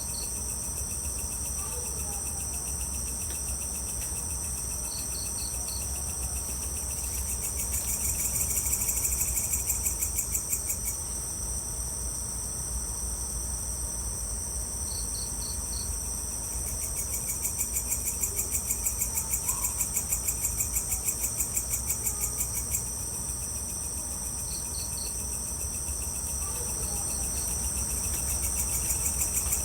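Evening insect chorus of crickets: a steady high-pitched trilling, with two stretches of a louder, rapidly pulsing call and short groups of three or four chirps every several seconds. A faint low hum lies underneath.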